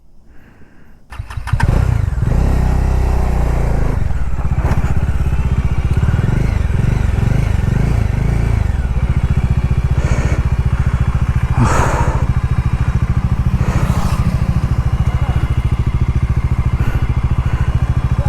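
Bajaj Dominar motorcycle's single-cylinder engine starting about a second in, then running steadily with a few short louder noises over it.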